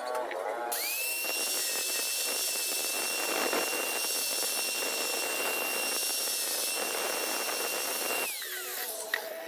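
High-speed power tool motor starting up with a steady high whine, running under a rough, gritty noise, then switched off and winding down, its pitch falling, about a second before the end.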